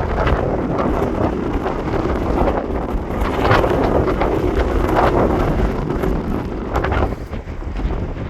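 Strong wind buffeting the microphone, a loud, gusty rumble that surges and eases, dropping off near the end.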